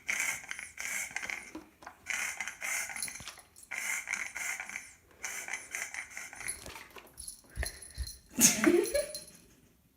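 A pet animal making a series of repeated noisy calls about a second apart, with a louder rising cry near the end.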